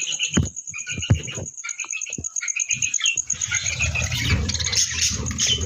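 Cage birds chirping and chattering in quick short calls, with a few sharp thumps early on. About three seconds in, a continuous rustling, rumbling noise joins in under the chirps.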